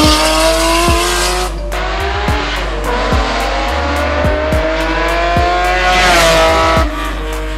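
Honda NSX V6 engine revving hard under acceleration, its pitch climbing in long pulls, breaking off once and climbing again. Near the end it peaks and falls away as the car passes close. Background music with a steady beat and bass plays underneath.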